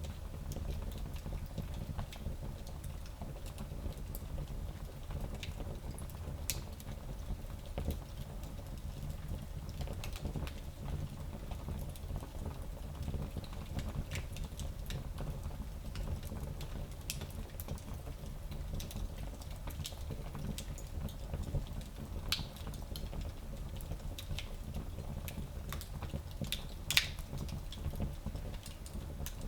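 Wood fire in a small fireplace crackling, with scattered sharp pops over a steady low rumble; the loudest pop comes near the end.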